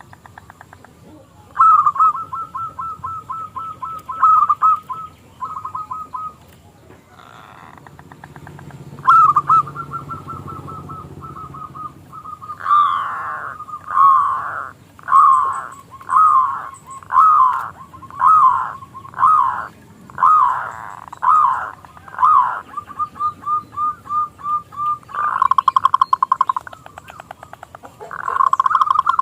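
Zebra dove (perkutut) singing: rapid trilled runs of short cooing notes, then a series of about a dozen louder coos that slide down in pitch, then more quick trills.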